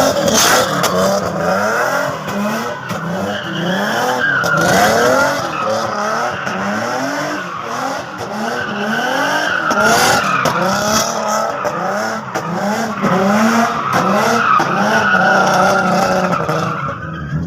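Car engines revving in many short rising bursts over a steady, wavering tyre squeal.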